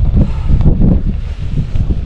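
Wind buffeting the microphone in loud, irregular low rumbling gusts.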